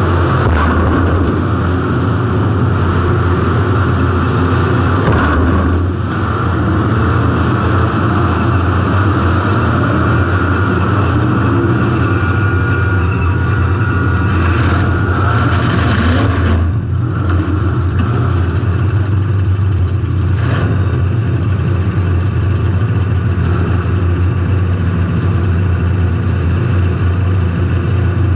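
Derby car's engine running loud and steady under load, heard through the on-car camera, with a few sharp bangs of impact in the middle stretch.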